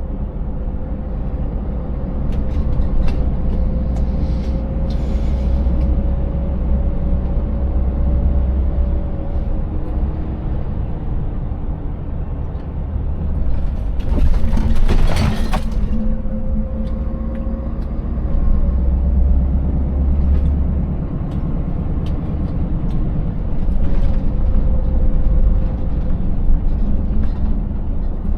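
Scania 590S V8 truck engine running steadily under way, with deep road rumble and scattered knocks and rattles from a rough, broken road surface. About halfway through, a hiss of air lasting a couple of seconds.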